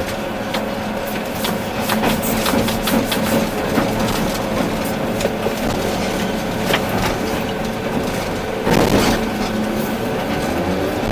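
Volvo EC380D excavator's diesel engine running steadily under working load, with irregular knocks and crunching of rock and soil being dug and moved by the bucket. A louder spell of grinding comes about nine seconds in.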